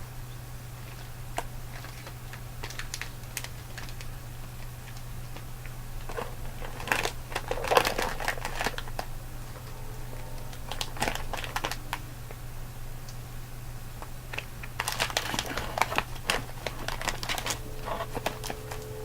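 Plastic candy wrapper or packaging being crinkled in three bursts of crackling, over a steady low hum. A steady tone comes in near the end.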